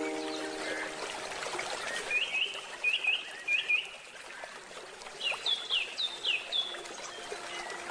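Forest birds chirping in two quick runs of short repeated notes, about four and then five, over the steady rush of a flowing stream. The last handpan notes die away in the first second.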